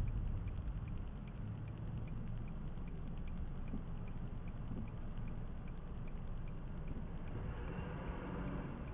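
Car cabin road noise: a steady low rumble of engine and tyres, with a turn-signal indicator ticking evenly about twice a second. A louder hiss, like tyres on wet or slushy road, rises near the end.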